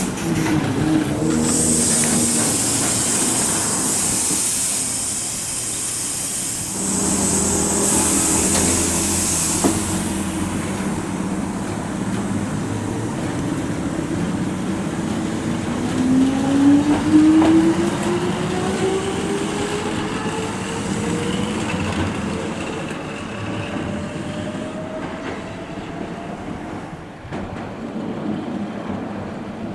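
Nose Electric Railway 5100 series electric train pulling out of the station. A loud hiss of air comes first. Then, after a while, the motor whine climbs steadily in pitch as the train speeds up and fades away.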